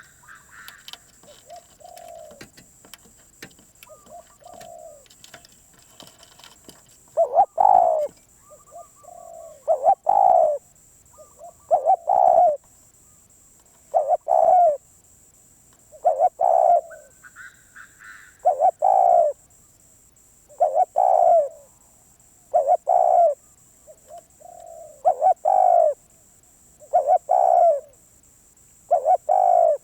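Spotted dove cooing: soft phrases in the first seven seconds, then loud, regular coo phrases about every two seconds.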